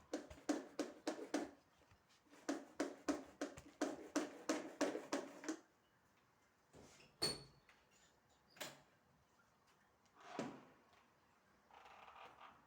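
Quick footsteps on a hard floor in two runs of about four steps a second. Then a door clicks with a brief squeak about seven seconds in, and a dull thump follows a few seconds later.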